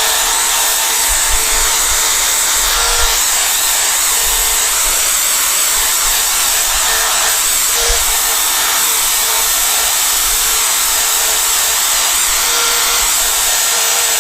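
Power drill spinning a wet buffing sponge against a plastic motorcycle windscreen, running steadily at constant speed with a hiss and an even hum. This is a final wet buff with no polishing compound.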